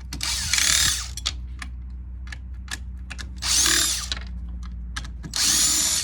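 Power drill run in three short bursts of under a second each, whirring with a high whine, while a ceiling fan motor is being taken apart; small clicks and knocks come between the bursts.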